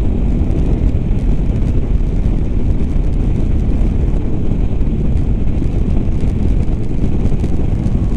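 Riding noise of a KTM 390 motorcycle on the move: a steady low rumble of wind on the microphone mixed with engine and road noise.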